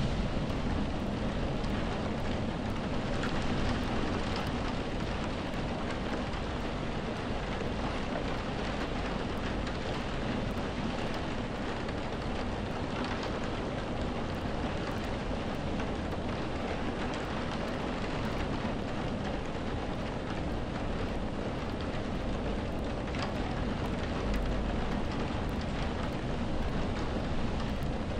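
Steady rain falling, an even wash of noise with a few distinct drops and a low rumble underneath.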